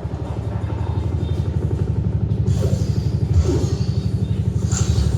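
Harman Kardon Citation Bar soundbar playing a deep, rapidly pulsing bass rumble, about ten pulses a second, with brief hissing sweeps higher up partway through.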